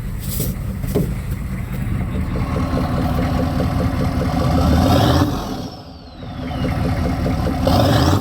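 6.5-litre GM diesel V8 revved twice from idle. The first rev builds slowly to a peak about five seconds in, then drops back with a thin whistle falling in pitch. The second is a quicker blip near the end.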